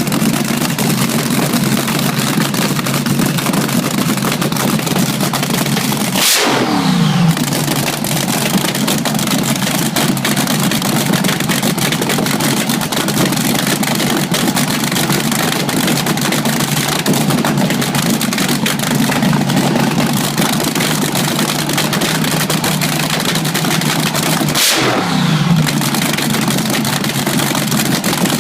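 Race car engine running loudly at a steady idle, blipped hard twice, about six seconds in and near the end, each rev dropping quickly back to idle.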